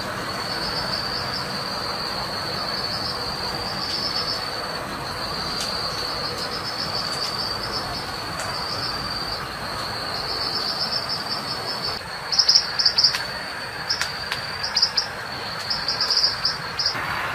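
Insects in the forest, crickets or cicadas, keeping up a steady high-pitched buzz. In the last few seconds, louder quick chirping pulses come in groups over it.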